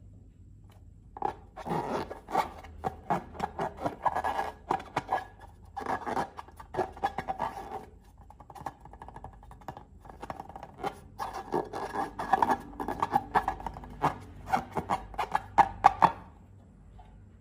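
Slime being squeezed and worked by hand: bursts of rapid wet clicking and crackling, in two long spells with a quieter pause between.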